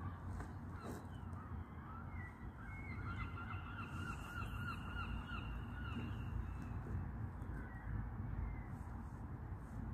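A bird calling: a run of short, quickly repeated calls, about five a second, from about three to six and a half seconds in, with a few single calls before and after. A steady low rumble lies underneath.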